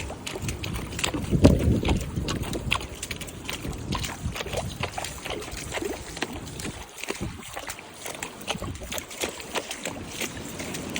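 A horse and handler wading through floodwater, with irregular splashing, while wind gusts buffet the microphone with a low rumble, strongest about a second and a half in.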